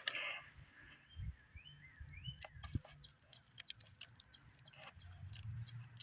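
A few faint bird chirps, short rising notes, with scattered light clicks over a low hum.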